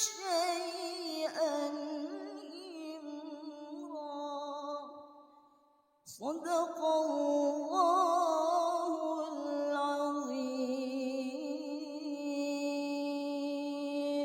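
A female Quran reciter (qari'ah) chanting in the melodic tilawah style, holding long, ornamented notes whose pitch wavers. One phrase fades out about five seconds in, and after a short breath a second long phrase follows.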